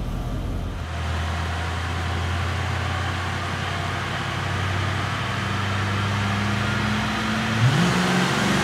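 Ford 5.0 pushrod V8 of a stock 1993 Foxbody Mustang running steadily on a chassis dyno. Near the end its engine speed climbs quickly as the revs come up.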